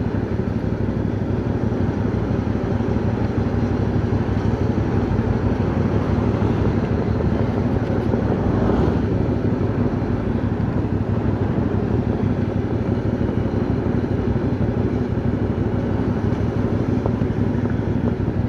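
CFMoto 450NK parallel-twin motorcycle under way at a steady pace: the engine running evenly with road noise.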